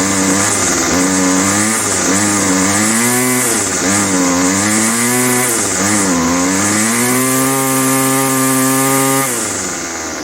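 Small petrol engine of a Homelite i625cd string trimmer being revved up and down several times, then held at high revs for a couple of seconds before dropping back about nine seconds in. It doesn't rev out cleanly at the top and runs too rich, smoking heavily, which the mechanic puts down to a carburettor metering diaphragm fitted backwards.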